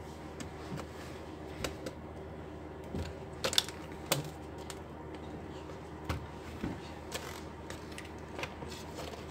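Scattered light clicks and knocks of an Acer Nitro laptop's display assembly being handled and fitted back onto the laptop, the sharpest click about three and a half seconds in, over a faint steady hum.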